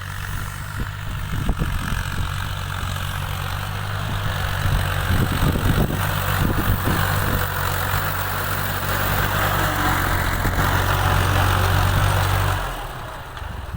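Al-Ghazi tractor's diesel engine running with a steady low drone that gets louder and works harder from about four seconds in. A few knocks come through in the middle, and near the end the engine drops back abruptly to a quieter run.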